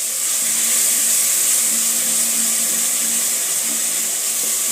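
Tomatoes and onions sizzling steadily as they fry in oil in a metal cooking pot, a constant high hiss.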